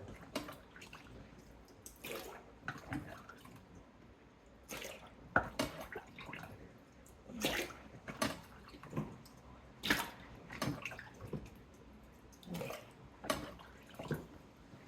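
Standing water being scooped out of the bottom of a Samsung dishwasher tub that failed to drain: irregular splashes and drips, roughly one every second.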